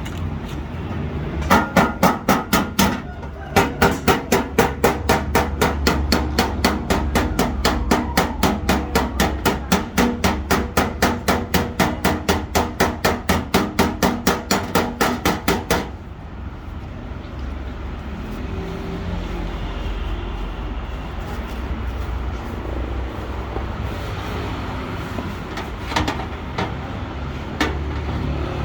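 Hammer blows on car body sheet metal, fast and even at about three to four a second: panel beating to take out dents. The blows stop about halfway through, leaving a steady low workshop background with a couple of single knocks near the end.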